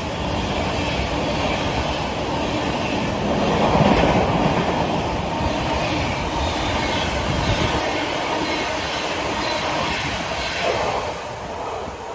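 Express train coaches rolling past at speed, wheels clattering over the rail joints with some wheel squeal. The rush is loudest about four seconds in and fades near the end as the train draws away.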